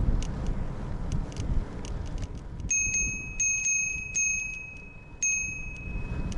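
Bicycle bell rung about five times starting a few seconds in, its bright tone ringing on until near the end, over steady wind and road rumble from riding.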